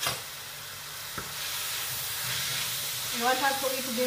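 Minced meat and chopped vegetables frying in oil in a pan, a steady sizzle that swells about a second and a half in, with a wooden spoon stirring through it. A sharp knock at the very start.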